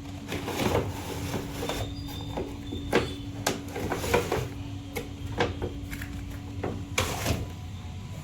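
Toy remote-control monster truck: a small electric motor hums steadily while hard plastic knocks and clatters come at irregular intervals, loudest about three, four and seven seconds in.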